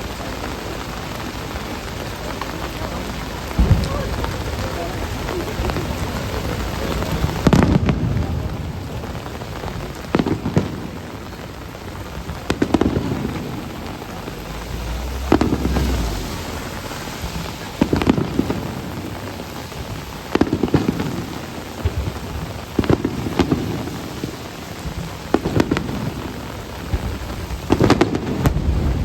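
Aerial firework shells bursting in a steady sequence, a heavy boom about every two and a half seconds, each rolling and echoing as it fades, over the steady hiss and patter of heavy rain.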